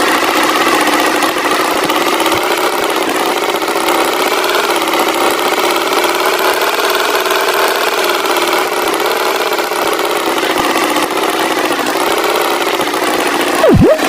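Tractor engine running steadily, a cartoon engine sound. Near the end a quick loud tone swoops down in pitch and back up.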